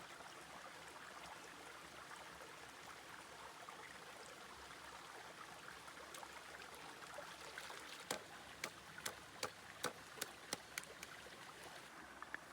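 Steady hiss of flowing water, with a quick run of about nine sharp knocks or taps over some three seconds near the end.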